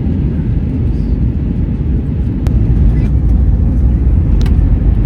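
Steady low rumble of an Airbus A321neo's engines and airflow heard from inside the cabin on approach, with two faint clicks. It gets a little louder about three seconds in.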